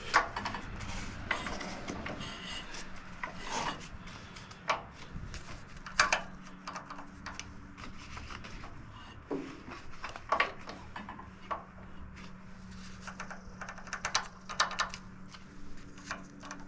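Hand work on a lawn tractor's V-twin engine while its valves are checked: scattered clicks, taps and rubbing of tools and metal parts, over a faint steady hum.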